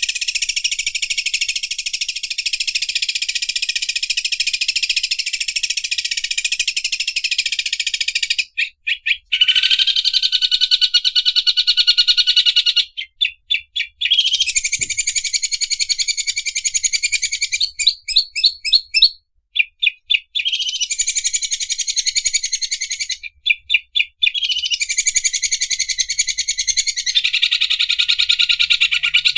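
Cucak ijo (green leafbird) singing its 'mesin obras' song: long runs of very fast, rattling high notes like an overlock sewing machine, broken now and then by short stuttering pauses.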